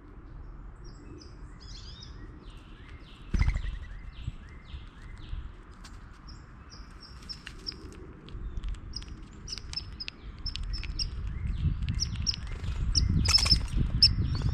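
Small birds chirping: short high chirps that come in quick runs from about the middle on. Underneath is a low rumble that grows louder near the end, and there is one sharp knock about three and a half seconds in.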